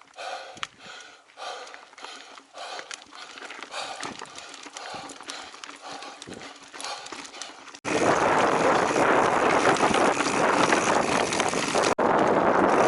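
Rhythmic footsteps and clicks at a walking pace, typical of a mountain biker off the bike on foot, then about eight seconds in a sudden loud rush of wind and tyre noise from riding, with a brief dropout near the end.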